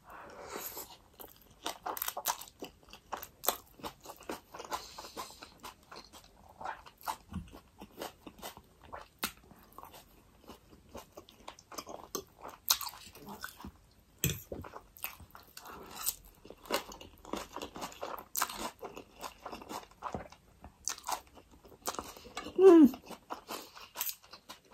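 Mouth sounds of a person chewing a mouthful of spicy ramen noodles, with many short, irregular clicks. There is a brief voiced sound, falling in pitch, near the end.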